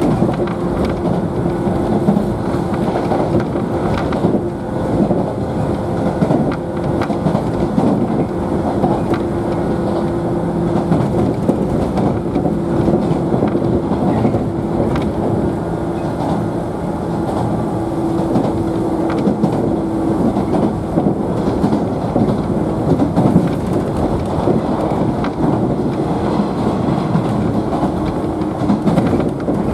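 Inside a JNR 113-series electric multiple unit motor car running between stations: a steady rumble of wheels on rail with a constant motor hum, punctuated by light clicks over rail joints.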